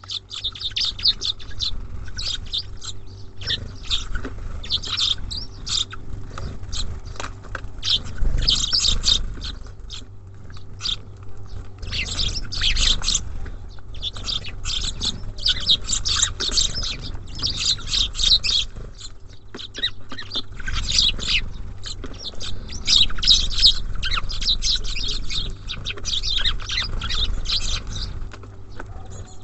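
Many small songbirds chirping busily and continuously at a feeder, short calls overlapping one another, over a low rumble.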